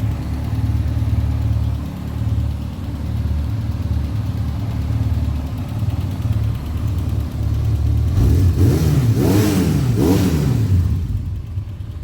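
Yamaha XJ600N Diversion's air-cooled inline-four idling through twin Delkevic exhausts. About eight seconds in it is revved once, rising and falling back to idle near the end.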